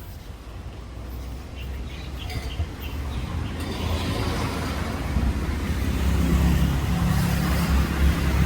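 A road vehicle's engine running, its low rumble growing steadily louder.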